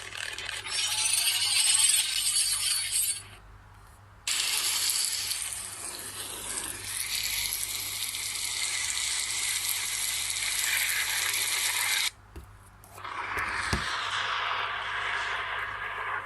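Crackling, hissing lightning sound effect in long stretches. It cuts off abruptly twice, about three seconds in and again near twelve seconds, then resumes.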